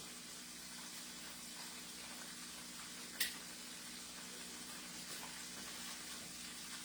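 Chicken pieces frying in hot oil, a steady sizzle, over a low steady hum, with one sharp click about three seconds in.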